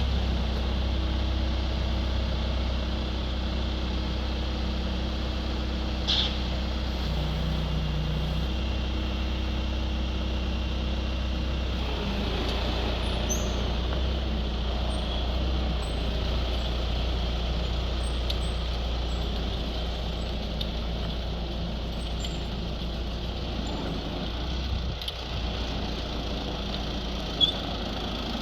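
Skid steer loader's engine comes up in level right at the start, just after starting, then runs steadily with a low drone. There is a brief click about six seconds in and a single sharp knock near the end.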